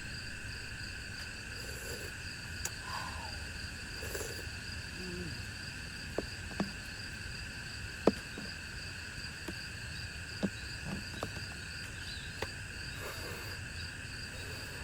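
Steady chorus of insects, several held high pitches at once, one with a fast pulsing trill. A few sharp light clicks or taps come between about six and twelve seconds in.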